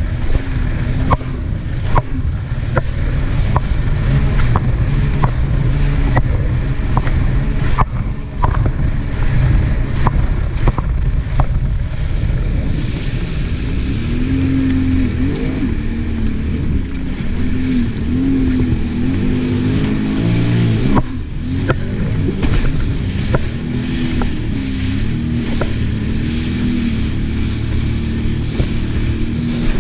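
Jet ski engine running under way, with regular thumps about once a second for the first dozen seconds; after that the engine note rises and falls as the throttle changes.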